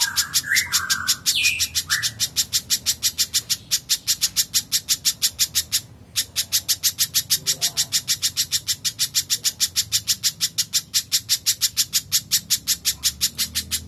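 Spiderhunter (pijantung) calling nonstop: a fast, even train of sharp, high chips at about seven a second, broken once briefly about six seconds in, with a few lower slurred notes in the first two seconds.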